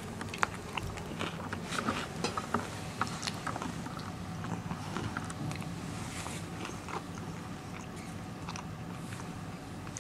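Close-up mouth sounds of someone chewing a bagel with smoked salmon and cream cheese: wet clicks and smacks, busiest in the first few seconds and sparser after, over a faint steady low hum.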